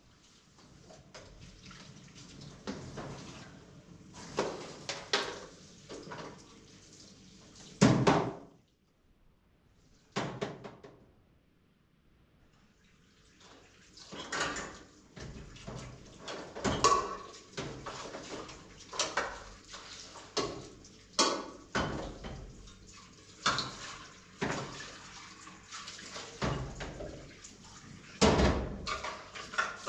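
Pots, dishes and utensils knocking and clattering irregularly during cooking work, with some water sounds. It falls quiet for a few seconds around nine to thirteen seconds in.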